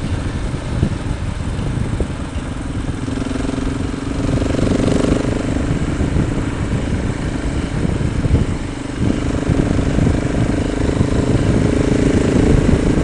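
Motorcycle engine running under way, with heavy wind rumble on the microphone. The engine note dips briefly about two-thirds of the way through, then picks up again.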